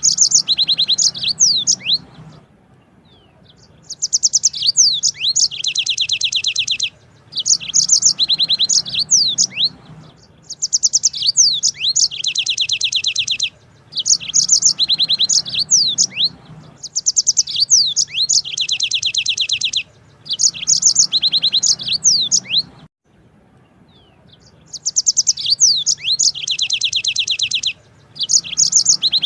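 Yellow-fronted canary (Mozambique canary) singing long rolled trills: each phrase is a rapid run of high repeated notes with a few quick sliding whistles, lasting two to three seconds. About nine phrases follow one another with short pauses between them.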